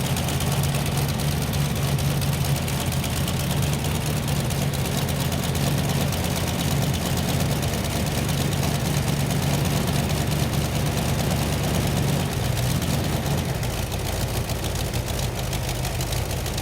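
Shelby Engine Company 427 FE aluminium-block V8 in a newly built Shelby Cobra, running steadily at idle on one of its first starts. It gets slightly quieter over the last few seconds.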